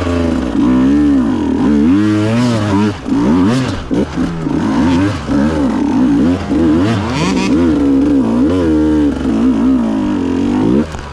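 Two-stroke enduro bike engine revved hard and unevenly, with the throttle opened and shut again and again so the pitch keeps rising and falling. The engine eases off shortly before the end.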